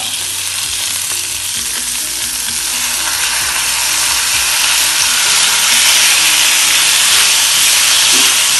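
Raw prawns sizzling as they hit hot oil in a frying pan with fried onions, scraped in from a bowl and stirred with a wooden spatula. The sizzle grows steadily louder over the first few seconds, then holds.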